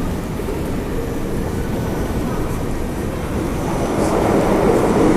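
Pyongyang Metro train running through its tunnel, heard from inside the car: a steady rumble that grows louder a little under four seconds in, with a few faint clicks.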